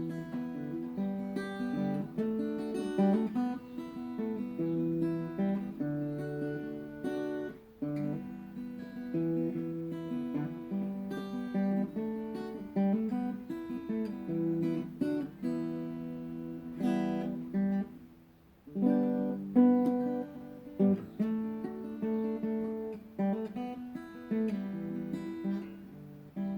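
Acoustic guitar strummed in a run of chords, with a brief break about two-thirds of the way through.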